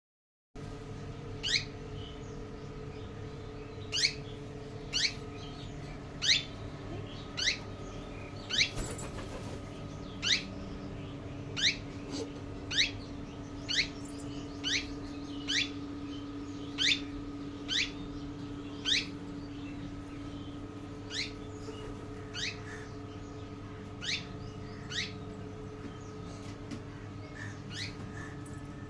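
A bird calling over and over, a short high squeak that drops quickly in pitch each time, about once a second, over a steady hum.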